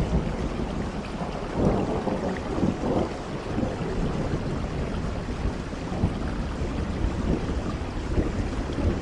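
Steady rain with a low rumble underneath that swells now and then, strongest about one and a half to three seconds in.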